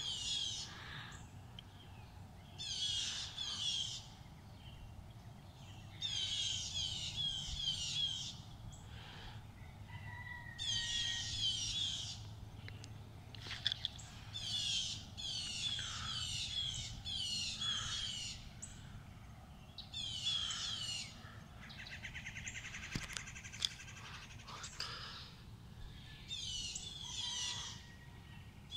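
A songbird singing short phrases of quickly repeated high notes, one phrase every three to four seconds. About two-thirds of the way through comes a different buzzy trill. Under it runs a steady low rumble.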